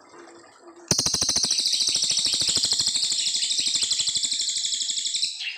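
Cililin coklat songbird singing one long, fast rattling trill of high notes. The trill starts about a second in and runs for about four seconds before breaking off near the end.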